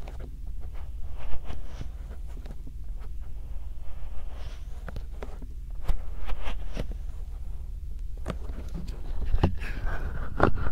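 Bare hands massaging a binaural microphone: skin rubbing and soft, irregular taps and rustles close to the mic, over a steady low rumble.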